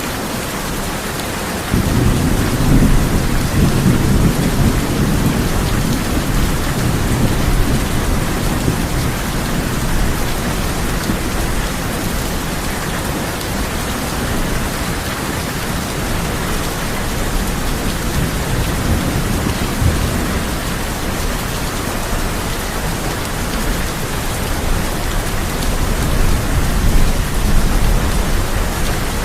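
Steady heavy rain falling on a tin roof, with low rolling thunder that comes in suddenly about two seconds in and rumbles on for several seconds, and rises again briefly in the middle and once more near the end.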